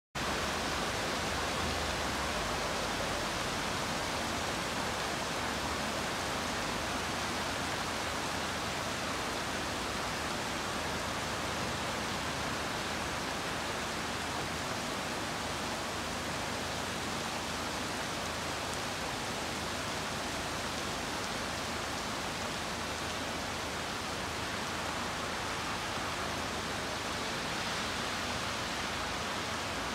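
Heavy downpour: rain falling steadily as an even hiss, with no letup.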